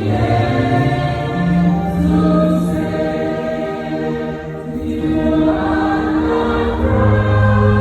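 A choir singing slow, long-held notes, in a gospel style.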